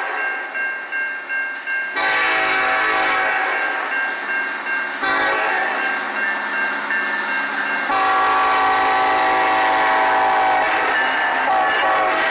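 Diesel freight locomotive's air horn sounding a series of long blasts as the train passes, the last blast the loudest.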